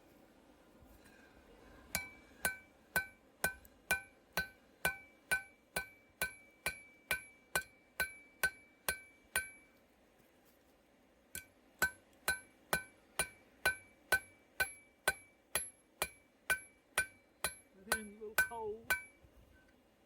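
Hand hammer striking hot steel on an anvil-shaped object while forging a tong blank, about two blows a second, each with a bright metallic ring. Two long runs of blows with a pause of about two seconds between them.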